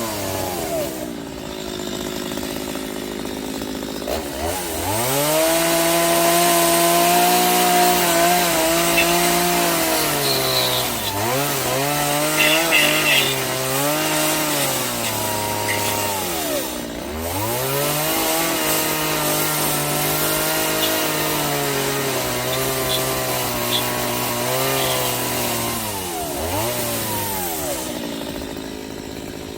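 Chainsaw cutting wood: the motor runs throughout, its pitch sagging and recovering several times as the chain bites into the wood and eases off.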